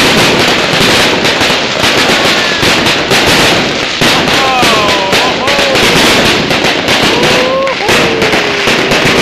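Fireworks display at close range: dense, continuous crackling and rapid popping of spark fountains and bursting shells. Drawn-out pitched tones glide over the crackle about halfway through and again near the end.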